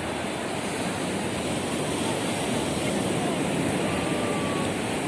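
Steady rush of surf on a beach, with faint distant voices mixed in.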